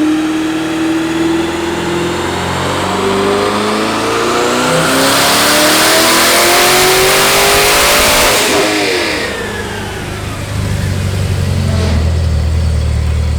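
Twin-turbocharged 6.2-litre V8 of a C8 Corvette making a full-throttle dyno pull. The revs climb steadily for about eight seconds, with a loud rushing hiss building over the last few seconds. Then the throttle closes, the revs fall away, and a steady low running follows.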